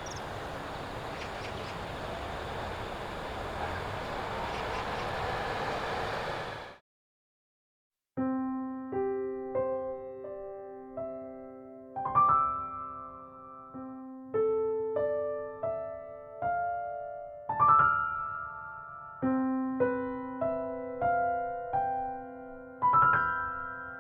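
Solo piano music, slow single notes and chords, starts after a brief silence about eight seconds in. Before that, a steady hiss of outdoor background noise runs and cuts off suddenly.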